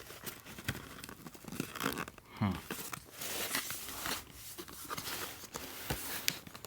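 Cardboard box and its packaging being handled and moved: rustling, light scrapes and taps.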